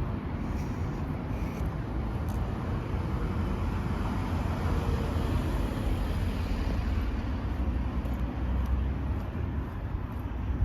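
Town-street ambience: steady road traffic noise with no distinct events.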